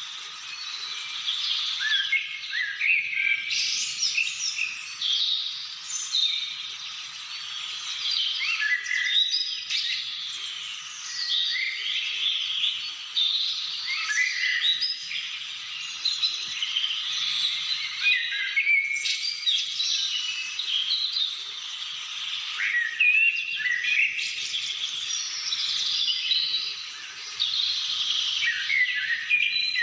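A chorus of many small birds singing and calling at once: quick, high chirps, trills and whistles overlapping without a break.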